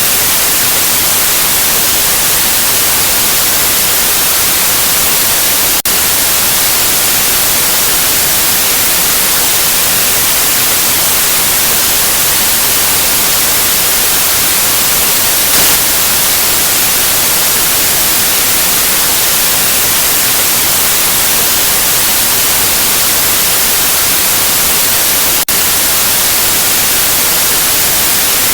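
Steady white noise: an even, loud hiss across all pitches, dipping for an instant twice, about six seconds in and again near the end.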